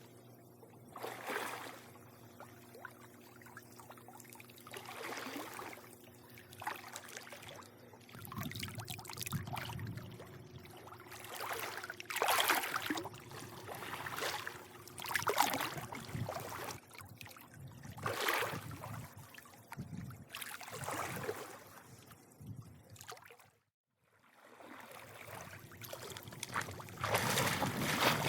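Pool water lapping and sloshing in repeated swells every few seconds, over a faint steady hum. The sound drops out completely for a moment about two thirds of the way through.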